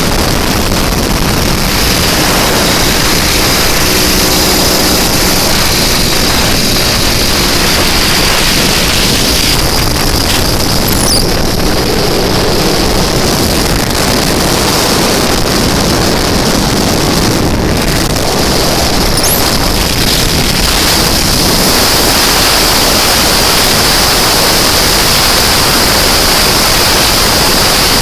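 Ural M-62 motorcycle's flat-twin engine running at road speed, mixed with loud, steady wind and road noise.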